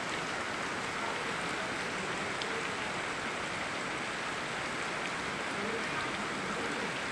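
Steady rain falling together with running river water, an even wash of noise, with an occasional single drop tick.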